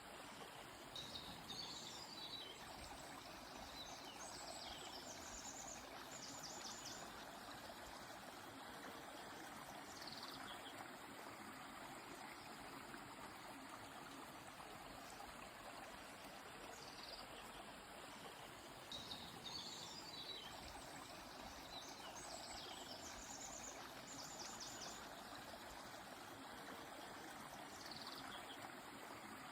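Steady running water of a stream, with birds chirping now and then over it: short high calls and quick rapid trills, returning every few seconds.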